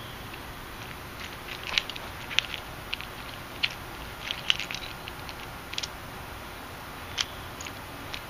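Irregular light clicks and taps from a plastic handlebar camera mount being handled and fitted, over a steady hiss.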